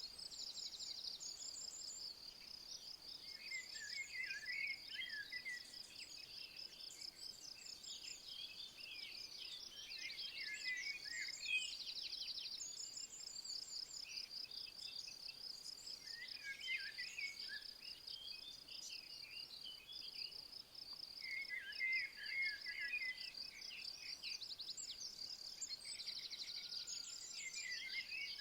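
A steady high trill of insects, crickets or bush-crickets, with songbirds singing short bursts of quick chirps every few seconds over it.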